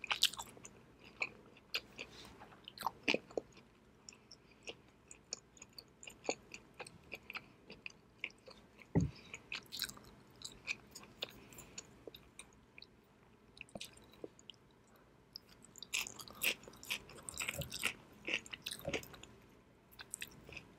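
Close-miked chewing of sashimi: a steady run of small mouth clicks, with a single dull knock about nine seconds in and a busier stretch of chewing near the end.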